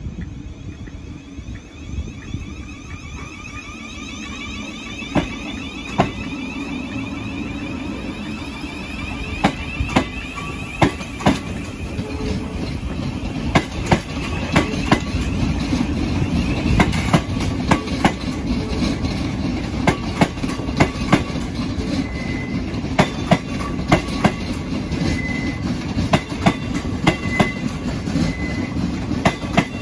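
Thameslink Class 700 electric multiple unit moving slowly over station pointwork. Its wheels click sharply over the rail joints and crossings, more often and louder as more carriages pass, with a faint wheel squeal coming and going in the last third.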